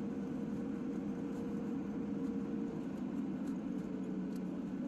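Steady low drone of a vehicle running, with a faint steady hum above it and no change in level.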